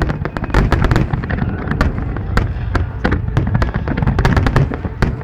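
Fireworks display: a rapid, dense barrage of sharp bangs and crackles, several a second, over a continuous deep rumble of launches and echoing bursts.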